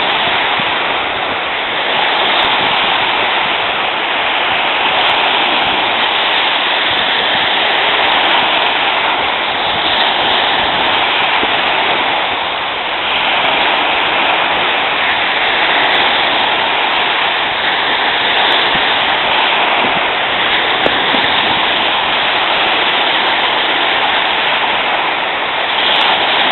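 Steady rushing noise that swells and eases slightly every few seconds.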